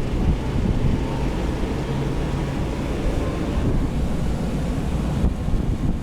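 Steady low rumble of a semi truck running, mixed with wind noise.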